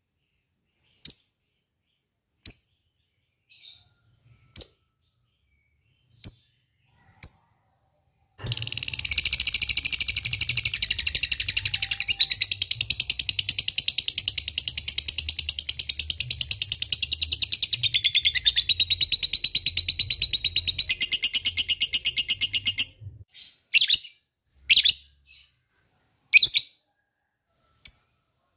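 Lovebird calling: a few short sharp calls, then about eight seconds in a long, very fast chattering trill of the kind called 'ngekek' runs for about fourteen seconds before breaking back into separate short calls.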